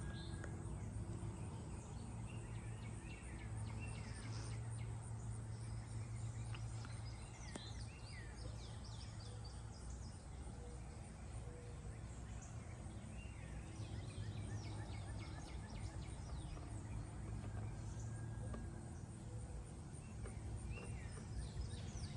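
Birds chirping and calling outdoors, many short chirps scattered throughout, over a steady low rumble.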